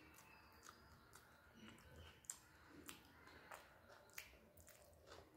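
Faint mouth sounds of a person chewing a mouthful of rice: irregular soft clicks and smacks, several of them spread out unevenly.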